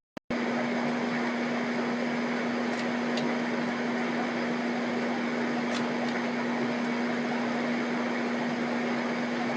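A steady mechanical hum: one constant low tone under an even hiss, with a few faint ticks.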